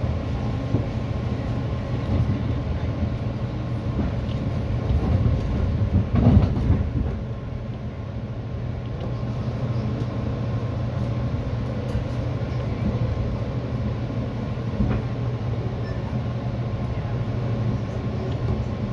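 EXO commuter train running along the line, heard from inside the passenger coach: a steady rumble of wheels on rail with a constant hum, swelling louder for about a second around six seconds in.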